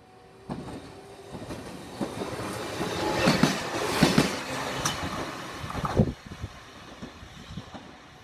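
Eizan Electric Railway train passing close by: a rush of running noise that builds from about half a second in, is loudest around three to five seconds, and dies away after about six seconds, with a few sharp knocks from the wheels along the way.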